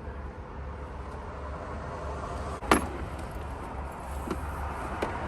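Rustling and handling noise from rummaging through boxes of clothes, with one sharp knock about two and a half seconds in and a couple of lighter clicks later, over a steady low rumble.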